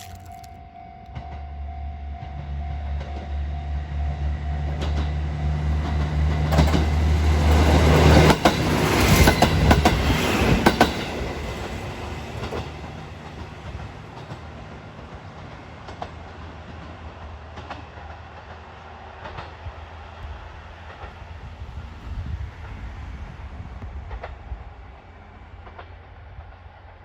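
Diesel local train passing over a level crossing. The engine drone builds for several seconds, the wheels clatter loudly across the crossing from about eight to eleven seconds in, and then the sound fades as the train moves away.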